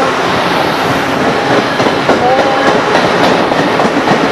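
Train passing close by, wheels clacking over the rail joints with steady rolling noise.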